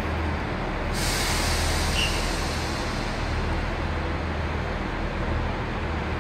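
A train approaching slowly into an underground station, heard as a steady low rumble and hum in the enclosed platform. A hiss comes in about a second in.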